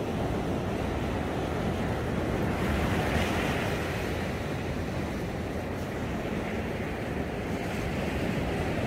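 Surf washing onto a sandy beach, a steady rush that swells about three seconds in, with wind buffeting the microphone.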